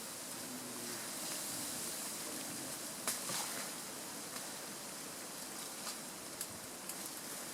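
Steady faint outdoor hiss with a few brief crackles, about three seconds in and again later.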